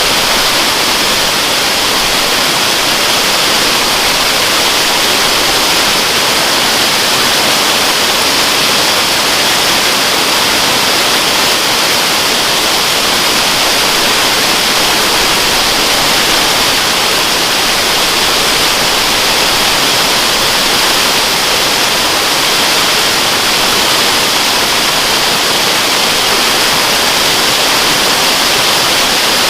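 Waterfall: a steady, loud rush of falling water with a hissy, high-pitched edge and no change throughout.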